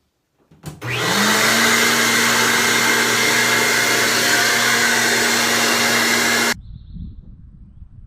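Electric dryer-vent cleaning blower switched on, spinning up within half a second to a steady hum and loud rush of air. It cuts off suddenly near the end, leaving only a low rumble.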